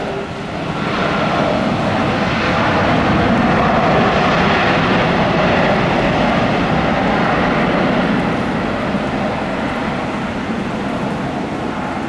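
Airliner passing close, its engine noise swelling about a second in, loudest midway, then slowly fading.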